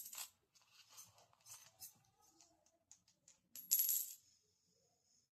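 Coins clinking as a pet parrot plays with them: scattered light clicks, then a louder clatter of coins about three and a half seconds in, with a short high ring after it.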